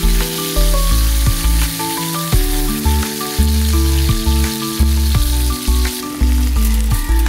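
Chicken breasts sizzling in a frying pan, a steady hiss under background music with stepped notes and a heavy bass.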